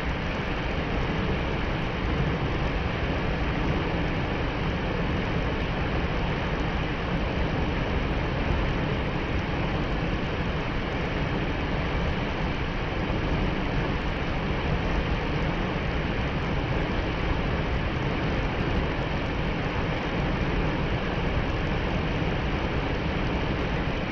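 Waterfall roaring, a steady, unbroken rush of falling water.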